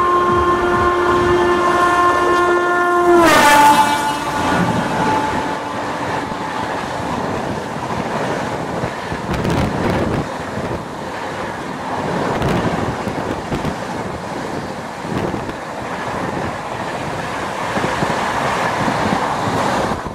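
An overtaking Rajdhani Express's locomotive horn sounds long and steady, then drops sharply in pitch a little over three seconds in as the locomotive passes alongside. After that its coaches rush by close beside the moving local train, wheels clattering on the rails, until the last coach draws ahead.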